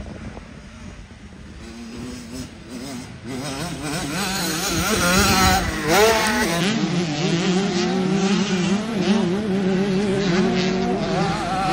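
Motocross dirt bikes racing, their engines revving up and down. The sound grows louder over the first few seconds as the bikes come closer, with a sharp rising rev about six seconds in.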